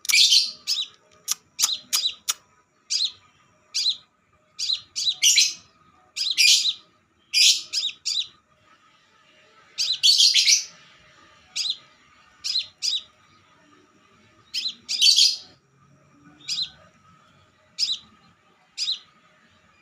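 Crimson sunbird giving sharp, high chirps about once a second, some single and some in quick rattling runs, with a few longer twittering phrases.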